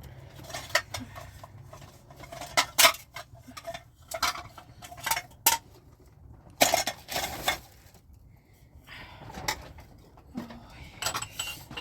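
Dishes and cutlery clinking and knocking together in irregular clatters, loudest about three seconds in and again around seven seconds.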